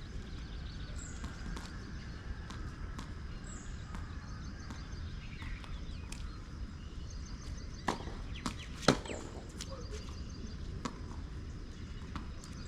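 Two sharp knocks of a tennis ball about a second apart, the second the louder, over steady low background noise with faint scattered ticks.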